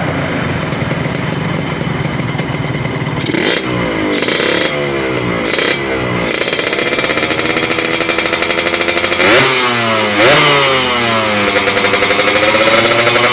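Yamaha RX-King two-stroke single running through an SMR under-slung exhaust fitted with a replacement baffle, blipped in a few short revs that rise and fall, with two sharper blips about two-thirds of the way in, settling between them into a steady, pulsing idle.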